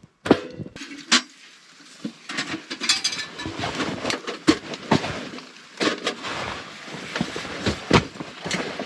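Rustling and a quick run of knocks and clatters as camping gear is handled and packed up.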